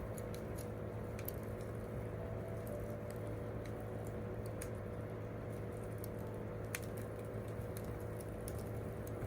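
Wood campfire crackling: irregular small snaps and pops, with a sharper pop about seven seconds in, over a steady low rumble of the fire.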